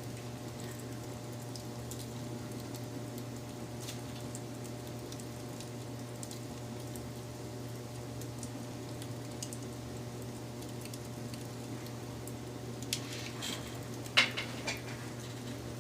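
Wood fire burning with a steady low rush and scattered small crackles, then a quick cluster of louder pops and snaps near the end.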